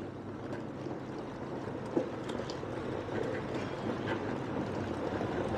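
Steady outdoor background rumble of road traffic, with a faint click about two seconds in.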